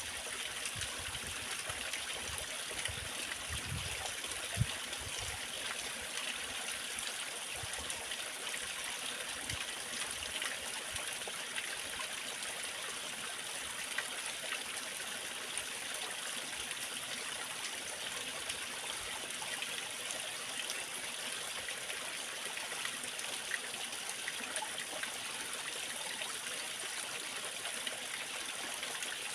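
Small waterfall or cascade of water running steadily, a continuous splashing rush with a faint low thump or two in the first few seconds.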